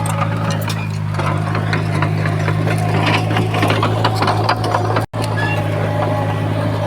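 Komatsu bulldozer's diesel engine running steadily with a low drone, with scattered clicks and squeaks of metal over it. The sound cuts out for an instant about five seconds in.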